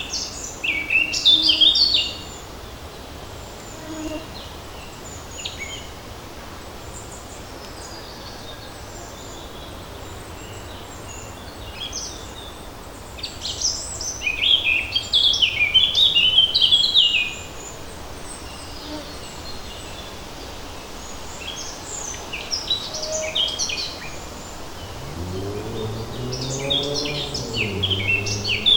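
Songbirds singing in short bursts of song, loudest at the start, in the middle and again near the end, over a steady background hiss of light breeze through the forest. A low hum that rises in pitch comes in near the end.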